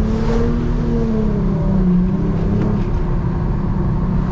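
Muffler-deleted Nissan G35's VQ35HR V6 exhaust droning steadily at cruise, its pitch swelling slightly and easing back.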